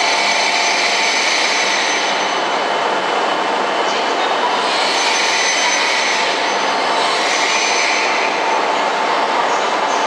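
E7 series Shinkansen train pulling slowly out of the platform: a steady rumble of wheels and running gear with faint steady motor tones, and a hiss that swells and fades every few seconds as the cars go by.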